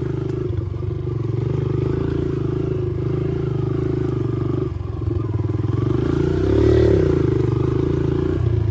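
Dirt bike engine running steadily, briefly revving up and dropping back about six and a half seconds in.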